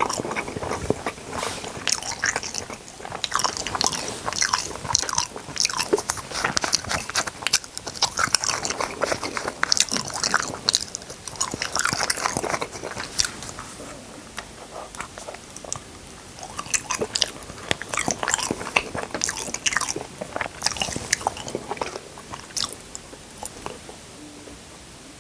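Close-miked eating: crunching bites and chewing, a dense crackle of sharp mouth clicks that eases off briefly about halfway through and again near the end.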